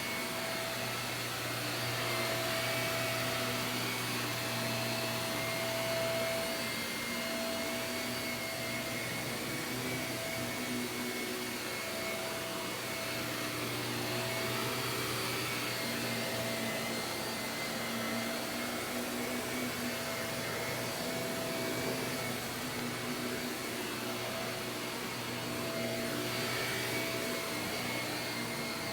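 Shark vacuum cleaner running continuously over carpet, a steady motor hum and whine that swells and eases slightly every few seconds.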